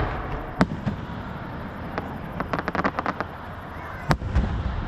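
Aerial fireworks bursting: a sharp boom about half a second in and another near the end, with a quick run of crackling pops in between, over a steady low rumble.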